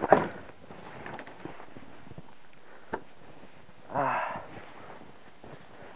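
A person breathing hard, with a loud breathy exhale at the start and a voiced, grunt-like breath about four seconds in, while clearing snow; a single sharp click just before the middle.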